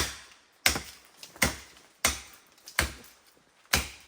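A blade chopping into wood: six sharp blows, a little under a second apart, each dying away quickly.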